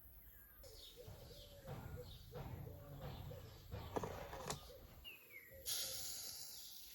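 Faint bird calls: many short, repeated chirps, with a couple of sharp clicks about four seconds in.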